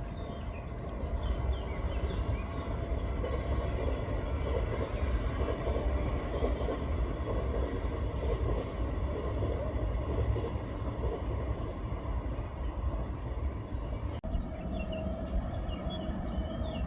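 Electric passenger train running past on the rails: a steady rumble with wheel clatter. About 14 s in an abrupt cut jumps to another train, with a steady whine over the rumble.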